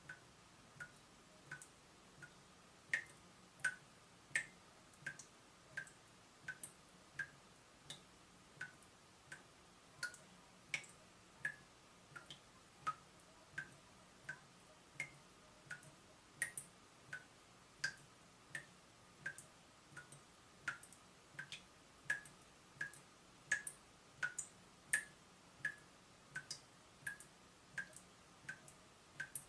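Water dripping from a leaking tap: a steady run of short plinks, about one and a half drops a second, some noticeably louder than others.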